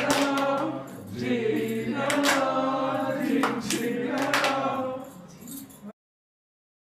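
Voices singing together in a choir-like chant, holding long notes. The singing fades and cuts off abruptly about six seconds in, leaving silence.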